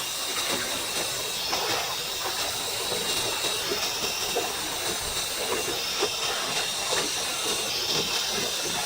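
Steady hiss of a stream's running water.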